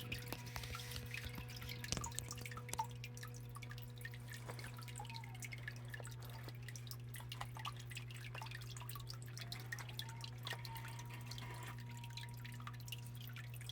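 Small waterfall in a medaka biotope tank, with water dripping and trickling onto stone and into the pool in many small irregular splashes, over a steady low hum. A faint tone rises and then holds about nine seconds in.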